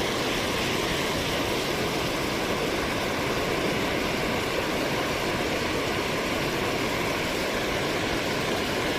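Steady rushing of a rain-swollen creek's current, an even water noise with no breaks.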